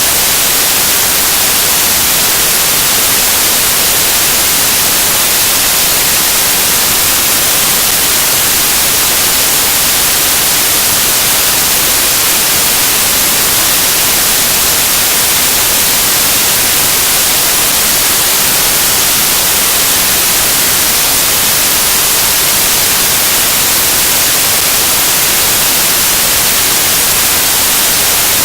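Loud, steady static hiss like white noise, strongest in the high frequencies and unchanging throughout, with no other sound in it.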